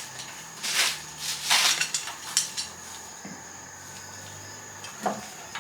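Kitchen clatter of cooking utensils and pots: a few short knocks and scrapes, the loudest about one and a half seconds in, and another near the end.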